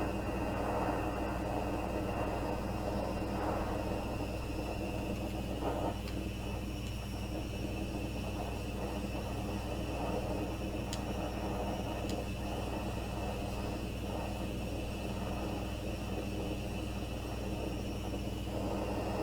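Steady rushing of a gas flame heating a block of pewter so it will melt, with two faint clicks about eleven and twelve seconds in.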